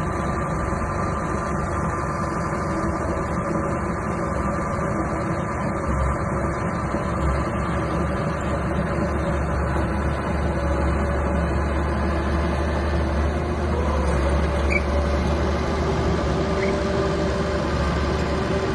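Small bulldozer's diesel engine running steadily while working, its pitch lifting slightly about two-thirds of the way through.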